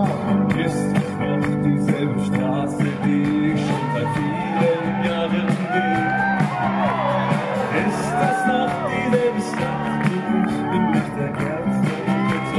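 Live concert music heard from the audience: sustained chords with singing voices whose pitch rises and falls, and crowd shouts mixed in.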